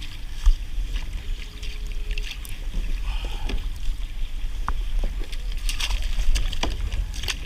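A heavy crab pot line being hauled up hand over hand from a kayak: scattered clicks, knocks and drips over a steady low rumble.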